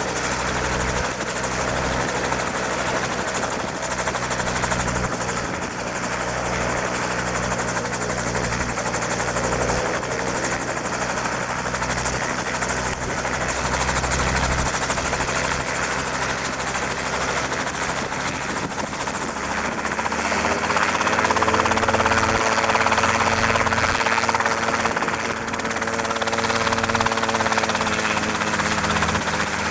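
Robinson R22 helicopter running: a steady rotor and piston-engine drone. About twenty seconds in the tone shifts and gets slightly louder.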